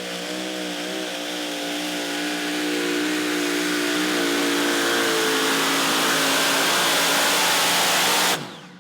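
Competition pulling tractor's engine run hard at full throttle, a loud, steady note with rising harsh noise over it that grows louder, then cuts off suddenly near the end.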